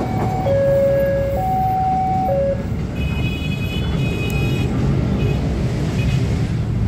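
A passenger train running on the tracks with a steady rumble. For the first two and a half seconds a two-tone electronic warning signal alternates between a high and a low note, about a second each. A brief high squeal comes about three to four and a half seconds in.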